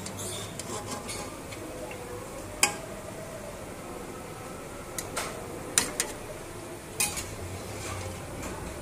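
Ghee sizzling gently as tikiyan fry over low heat, with about six sharp clinks of a metal utensil against the pan or plate, the loudest about a third of the way in and again past the middle.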